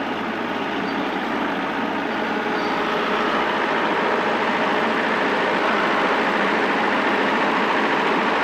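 Tractor engine running steadily, getting a little louder over the first few seconds, while the front loader bucket is raised.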